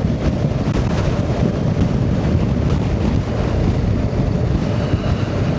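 BMW R 1250 GS motorcycle riding at a steady pace: wind rushing over the microphone, with the engine's even drone underneath.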